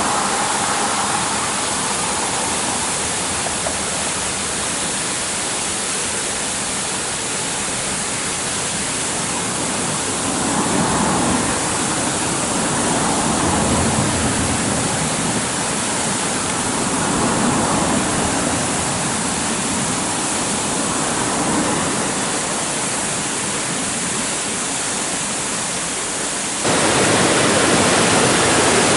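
Rushing water of a mountain stream and its falls, a steady even rush with gentle swells. Near the end it suddenly becomes louder and fuller.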